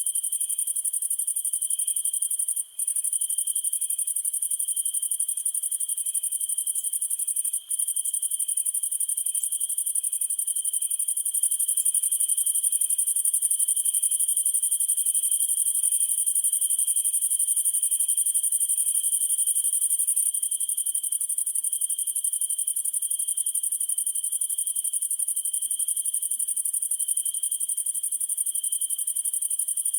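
A summer-night chorus of crickets and other insects: a continuous high-pitched trill with a lower, evenly pulsing chirp beneath it. The sound cuts out for an instant twice in the first eight seconds.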